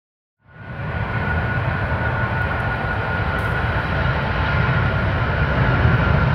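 Airbus A380-841's four Rolls-Royce Trent 970 jet engines at takeoff power: a loud steady rumble with a high whine held over it, fading in about half a second in.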